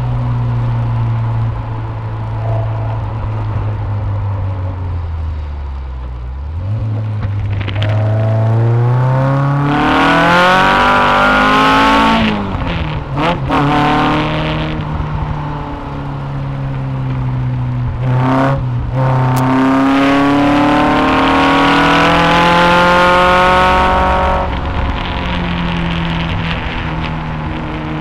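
Westfield sports car's engine heard from inside the open cockpit at speed. It runs steadily, then the revs climb hard from about 7 seconds in, break off briefly about 13 and 18 seconds in, climb again, and fall away about 24 seconds in.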